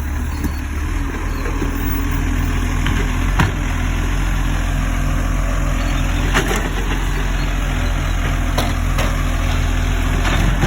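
Garbage truck engine idling steadily, with a few short knocks or clunks scattered through it.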